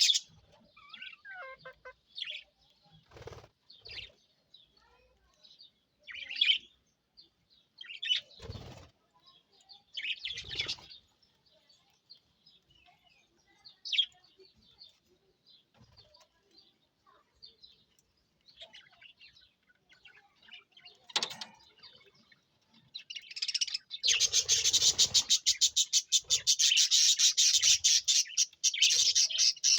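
Budgerigars chirping in scattered short calls, with a few soft thumps. Near the end, a dense, loud run of rapid chattering chirps takes over.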